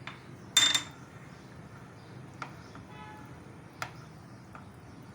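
A spoon clinking against a cup or bowl while custard powder is stirred into milk: a loud clatter with a brief ring about half a second in, then a few single clicks spaced out over the next few seconds. A low steady hum lies underneath.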